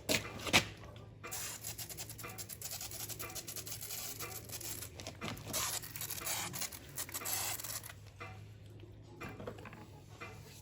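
Hand work on parts: a couple of sharp knocks at the start, then several seconds of busy scraping and rattling that fades near the end.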